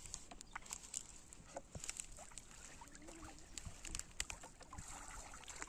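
Faint, irregular splashing and sloshing of river water, with scattered small clicks and drips.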